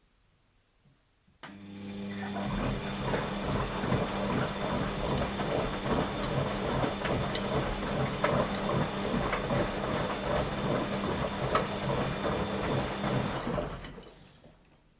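Washing machine drum turning under its motor during the wash phase. It starts with a click about a second and a half in, runs steadily with a motor hum for about twelve seconds, then winds down near the end.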